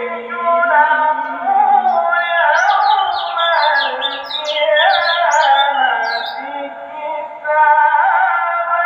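Music with a held, sung-like melody throughout. From about two to six seconds in, a white-eye's rapid, high twittering song of short chirps rises above it.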